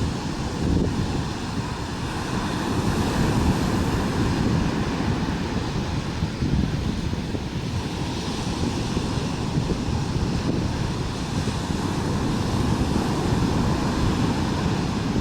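Ocean surf with wind buffeting the microphone: a steady rushing noise, heaviest in the low end.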